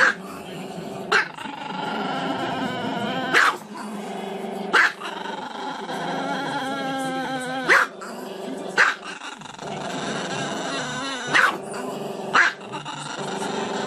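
Small dog howling with its muzzle raised, a drawn-out wavering howl broken by about seven short sharp yips.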